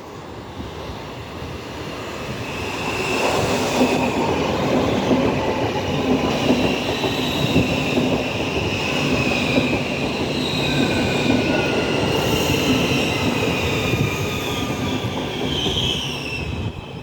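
Train rolling past with its wheels squealing in long, wavering high tones over a steady rumble, growing louder over the first few seconds.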